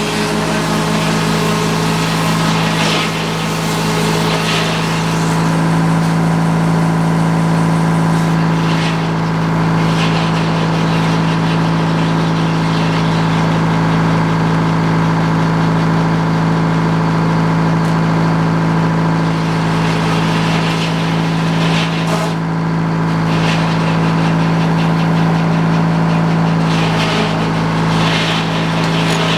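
Sawmill engine running at a steady speed, with a few short knocks.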